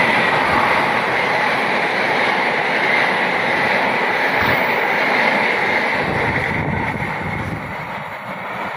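Passenger carriages of the Argo Wilis express train rolling past close by at speed: a loud, steady rush of wheels on rails that fades over the last couple of seconds as the train draws away.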